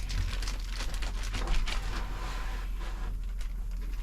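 Scattered light clicks and rustling from handling things, over a steady low hum.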